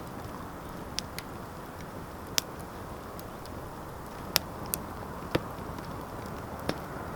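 Wood fire in a fireplace crackling: a steady low rush with about seven scattered sharp pops.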